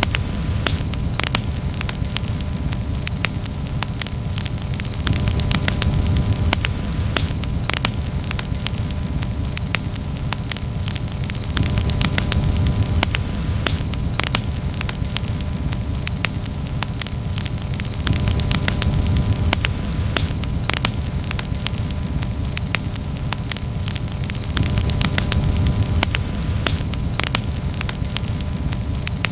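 Campfire burning with dense, continuous crackling over a low rumble that swells and fades every few seconds.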